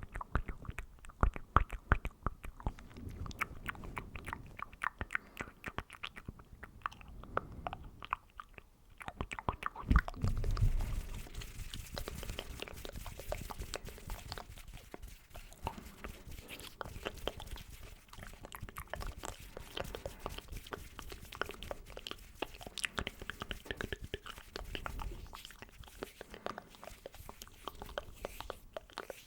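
Close-miked ASMR mouth sounds: a fast run of clicks and smacks, turning into a denser, hissier texture of small clicks about ten seconds in.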